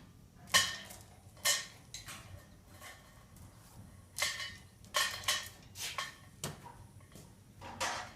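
Irregular sharp metallic clanks and clinks, about eight in all and the loudest a little over half a second in, each with a short ringing tail: metal tools and parts knocking together during work on a tractor.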